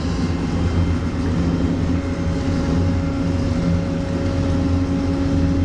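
A vehicle engine running steadily: a low, even hum that holds the same pitch, with no revving.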